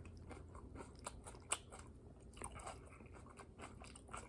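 Close-up chewing of a mouthful of japchae, stir-fried glass noodles with vegetables: faint wet chewing with small crunches and clicks, one sharper click about a second and a half in.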